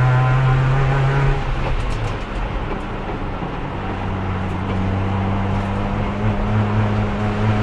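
Race car engine heard from inside the cockpit. The engine holds a steady note, then drops away about a second and a half in as the driver lifts off, and builds back up over the last few seconds. The car is held in 4th gear throughout with no downshift, because its worn-out transmission has lost 3rd gear and will not shift at speed.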